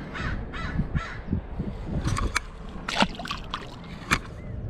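A bird calling in a quick series of repeated calls, about three a second, over the first second, followed by several sharp knocks and clicks, the loudest about three seconds in and again near the end.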